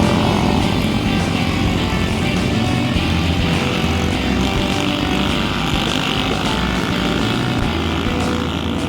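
Bus engine running steadily at speed, its note dropping as it passes right at the start.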